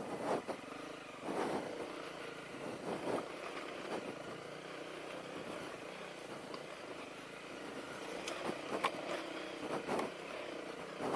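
Honda CRF250L's single-cylinder four-stroke engine running at low trail speed, swelling irregularly with short throttle openings. There are a few sharp knocks about three-quarters of the way through.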